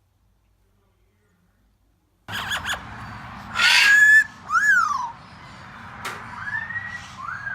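Silence for about two seconds, then pet parrots calling: clear whistles that slide up or rise and fall, and one loud harsh squawk about three and a half seconds in.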